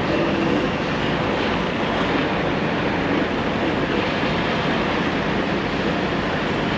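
Steady noise of a running semi truck, an even rumble without change.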